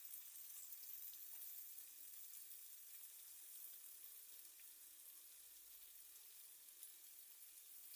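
Chopped onions frying in oil in a pan, a faint, steady sizzle as they brown before the meat goes in.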